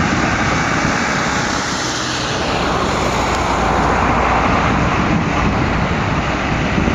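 Boeing 767-200ER jet engines running loud and steady as the airliner passes, with a whine that slowly falls in pitch.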